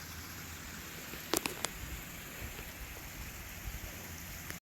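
Steady rushing noise of a waterfall, with a few sharp clicks about a second and a half in. The sound cuts off suddenly at the very end.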